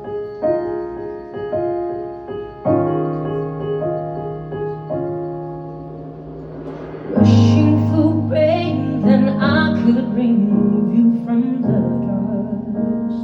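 Live band playing a slow jazz-pop ballad: sustained piano chords alone at first, then about seven seconds in a woman's singing voice comes in over bass and keyboard.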